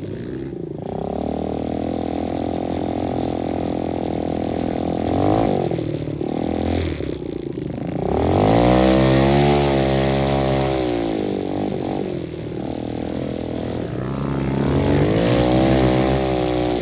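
125cc dirt bike engine running and being revved. It holds steady for a few seconds, then climbs and falls in pitch as the throttle is opened and closed: loudest about eight seconds in, with another rise and fall near the end.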